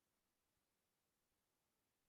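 Near silence: a pause in the online call's audio.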